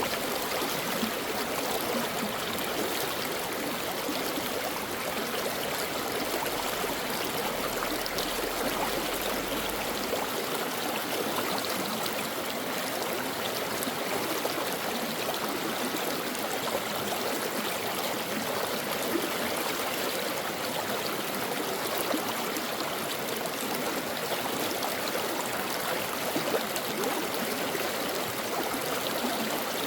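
Brook water running in a steady, even rush with no breaks.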